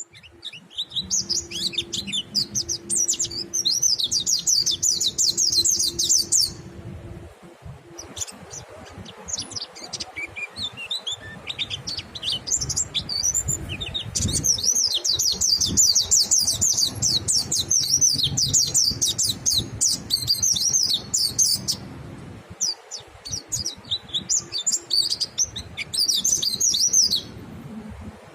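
White-eye (pleci) singing a rapid, high twittering song in three long bursts, with scattered single notes between them.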